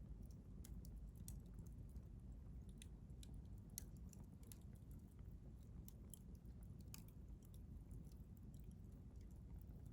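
Wood campfire crackling faintly: scattered, irregular sharp pops and snaps from the burning wood over a low steady rumble.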